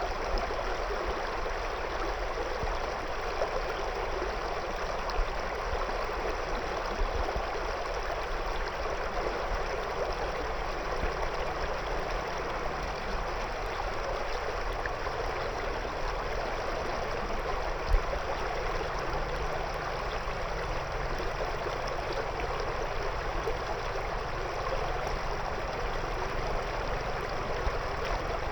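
A shallow river flowing steadily over and around stones, a continuous rushing babble, with one brief louder splash or knock about two-thirds of the way through.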